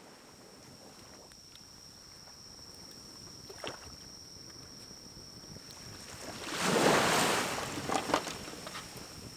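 Pine cones burning in a small wood-burning stove: a low steady rush of fire with scattered crackles and pops, and a louder rushing surge lasting about a second roughly two-thirds of the way through.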